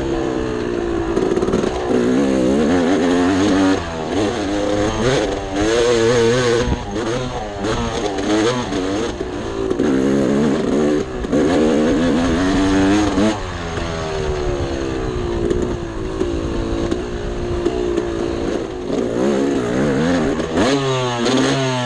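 Two-stroke dirt bike engine revving up and down continuously as it is ridden off-road, its pitch rising and falling every second or two, with a quicker climb in revs near the end.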